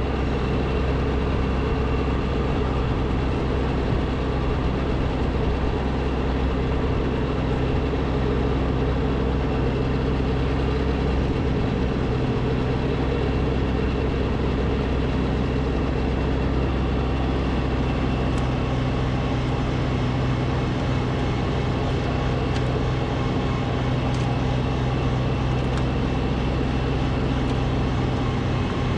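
Snowblower engine running steadily at a constant speed while clearing snow.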